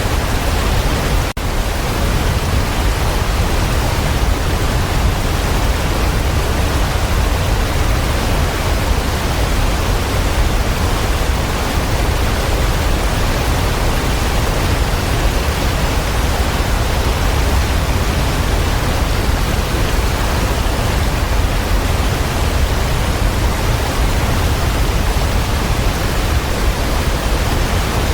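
Waterfall: a steady rush of falling water, heaviest in the low end, with a brief dip in level about a second in.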